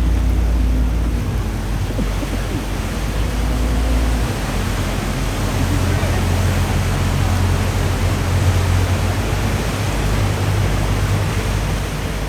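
Water taxi motorboat engine running steadily with a low hum, over the rush of water and wind along the hull; the engine note shifts about four seconds in.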